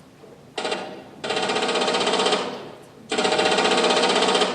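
Pneumatic rivet gun hammering in rapid bursts: a brief burst about half a second in, then two longer bursts of a second or more each.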